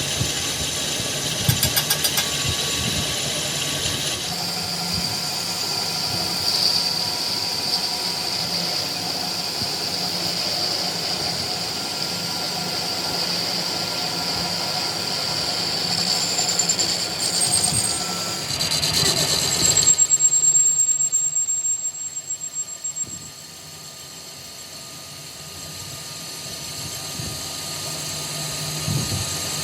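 An engine running steadily, with a high whine over it for much of the time. About twenty seconds in it gets louder, then drops to a quieter hum that builds back up near the end.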